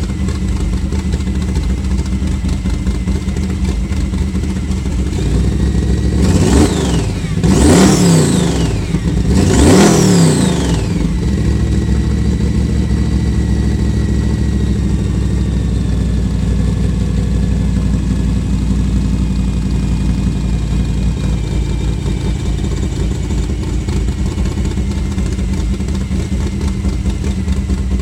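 Studebaker drag-car engine on electronic fuel injection, running at a fast warm-up idle, as if on choke. It is revved three times in quick succession, each rev rising and dropping back quickly, before it settles back to a steady idle.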